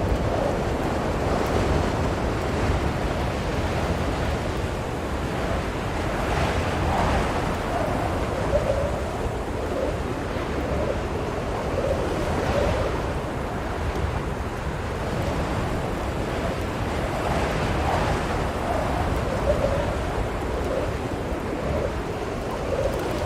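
Blizzard wind blowing hard and steadily, swelling in gusts every few seconds.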